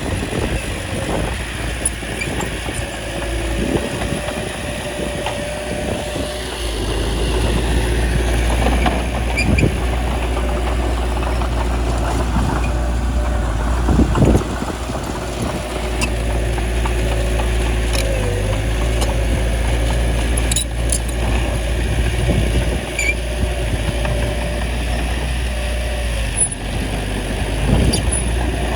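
Small bulldozer's diesel engine running steadily, with a few short knocks from the machine at work.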